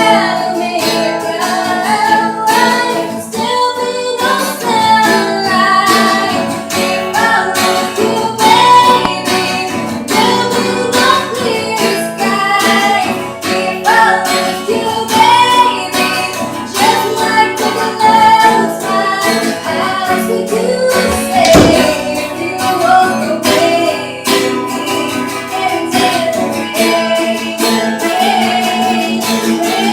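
Acoustic guitar strummed and picked while a woman sings a slow melody.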